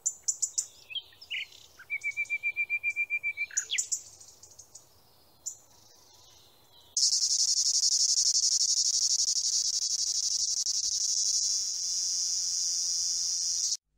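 Songbird calls: sharp high chirps, then a rapid run of repeated notes, with a lull after about four seconds. About seven seconds in, a loud, steady, high-pitched insect trill starts and cuts off suddenly near the end.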